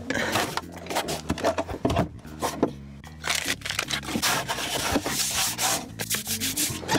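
Close-up chewing of crispy fried food: dense, irregular crunching and crackling, heaviest from about three seconds in.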